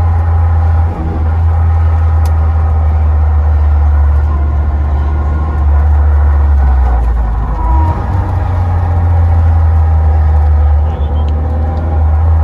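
Citroën AX GT rally car driving on the road, heard from inside the cabin: a steady, loud low engine drone with road noise, dipping briefly a few times.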